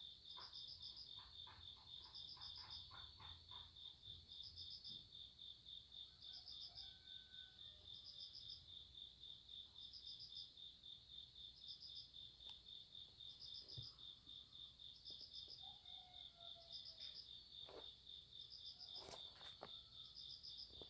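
Night-time crickets chirping faintly and steadily in a rapid, even pulse. A second insect's higher trill repeats about every second and a half over it.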